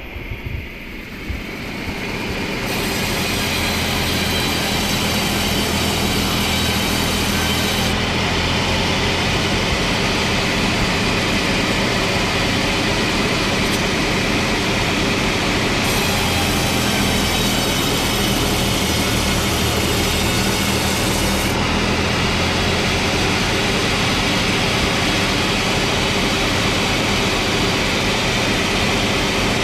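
Large sawmill saw cutting pine log into slabs: a loud, steady run of cutting noise with high ringing tones, building up over the first few seconds.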